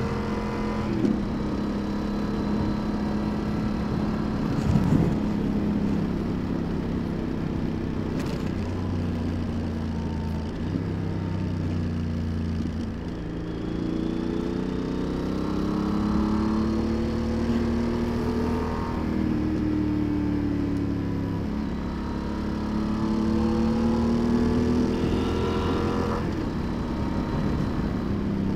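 Yamaha XT1200Z Super Tenere's parallel-twin engine running on the move, its pitch rising and falling several times as the rider accelerates and eases off. A single short thump comes about five seconds in.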